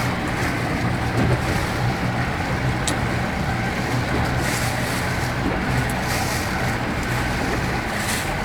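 Motorboat engine running at a steady speed, a low even hum, with a few short bursts of hiss on top.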